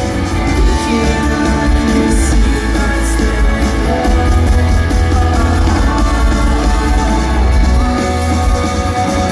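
Rock band playing live and loud, with singing over electric guitars, bass and drums.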